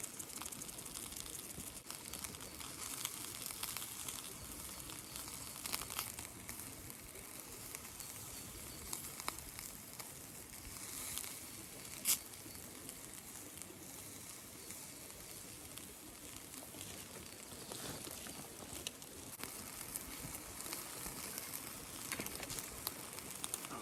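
Steady pattering hiss of rain mixed with the sizzle and crackle of chicken yakitori skewers grilling over binchotan charcoal, with scattered small pops and one sharper click about twelve seconds in.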